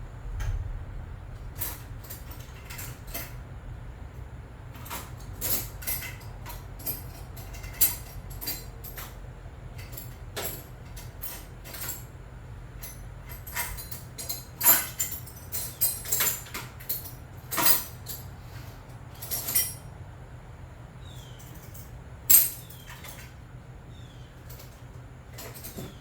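Hand tools and metal parts clinking and knocking in irregular bursts, busiest in the middle and with one sharp knock a few seconds from the end, over a steady low hum.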